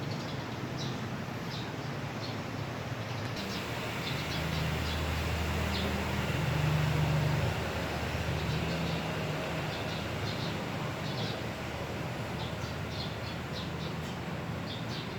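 Small birds chirping in short, high notes, scattered several times a second over a steady noisy background. A low rumble swells and fades in the middle.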